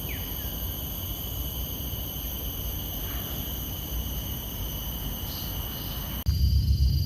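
Insects trilling steadily in several high, thin tones over a low rumble. About six seconds in the sound cuts abruptly to a louder low rumble, and the insect tones change.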